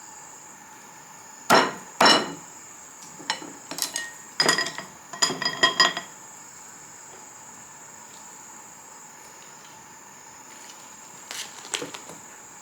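Hard metallic knocks and clanks: two loud strikes, then a rapid cluster of ringing clinks over about two seconds, and a few softer knocks near the end. A steady high-pitched whine runs underneath.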